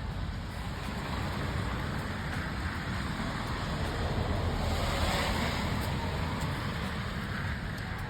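Steady outdoor hiss of falling wet snow and rain, with a low rumble beneath. A broader rushing swell builds to a peak about five seconds in, then eases off.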